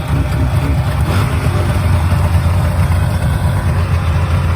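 Large engine idling steadily shortly after a cold start, with a deep, even rumble and no change in speed.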